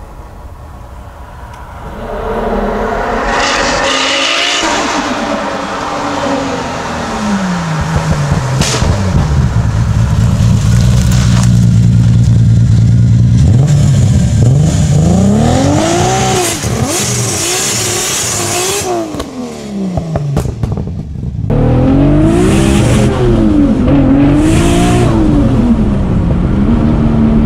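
Engine of a tuned 800-horsepower Nissan Skyline R33 GT-R: it drops in pitch as it goes by, holds a steady note for a few seconds, then revs up and down several times in quick sweeps, with sharp hissing bursts near the top of the revs.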